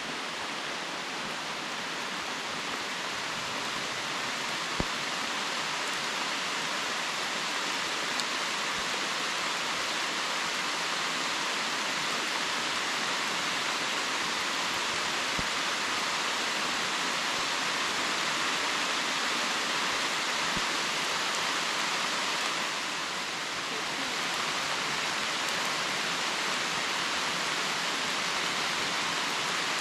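Steady rain falling through a leafy forest canopy: an even, dense hiss of drops on leaves and ground, with a few sharp taps from single drops close by.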